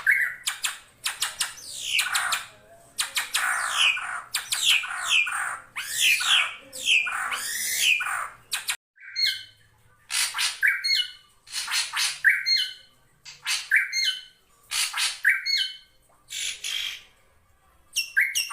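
A drongo calling: a dense run of harsh, scratchy notes mixed with falling whistles, then after a short pause about halfway through, a series of separate calls, each a rasp ending in a sharp falling whistle, repeated less than a second apart.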